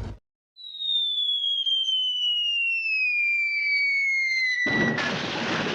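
Cartoon falling-whistle sound effect: one long whistle sliding down in pitch for about four seconds, cut off about five seconds in by a loud, noisy crash of impact.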